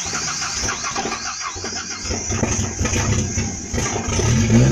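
A truck's starter cranking the engine with a fast, even rhythm; about four seconds in the engine catches and starts running, rising in pitch.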